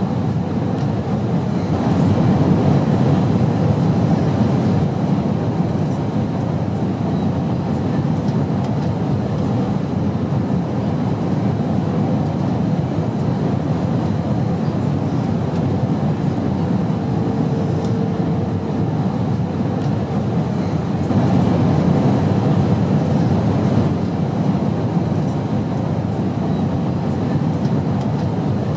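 Airplane noise: a steady low rumble that swells slightly in loudness twice.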